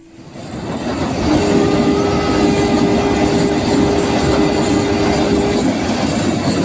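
A passing train's running noise swells in over the first second or so. A steady two-note tone is held over it for about four seconds, and the noise begins to fade near the end.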